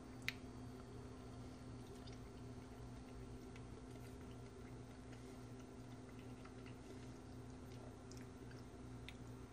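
Quiet chewing of a bite of seared tuna: soft, scattered mouth clicks, with one sharper click just after the start, over a steady low hum in the room.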